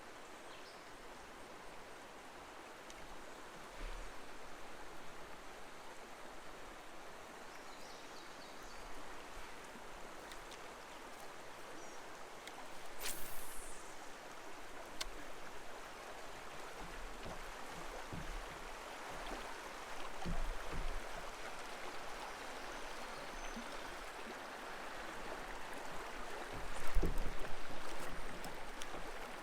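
Creek water running steadily, with a few low thumps now and then and a sharp click about halfway through; the loudest thump comes near the end.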